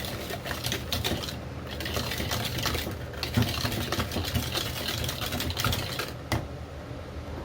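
Rapid, irregular clicking and clattering, like a utensil working against a container, which stops abruptly about six seconds in.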